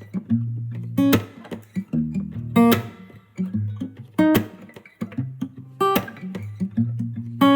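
Background music: a strummed acoustic guitar playing an instrumental intro after a count-in, with a sharp accented strum about every second and a half.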